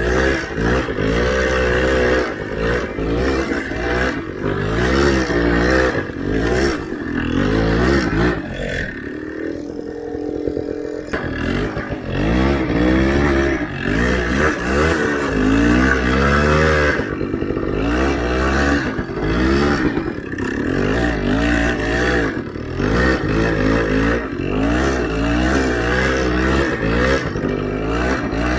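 Motorcycle engine revving up and down over and over under load while riding through deep snow. About a third of the way through it drops briefly to a lower, steadier note.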